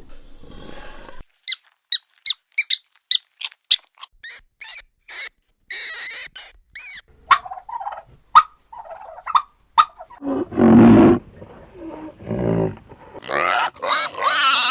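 A string of different animal calls one after another: rapid high squeaks for several seconds, then shorter mid-pitched calls, then two longer, deeper calls near the end.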